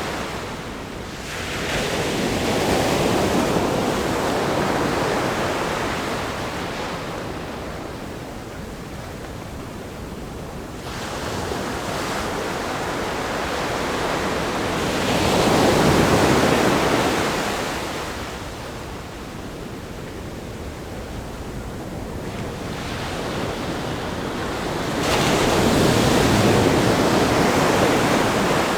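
Ocean waves breaking on a rock groin and washing up the sand, in three surges about ten seconds apart, with the rushing hiss of surf in between.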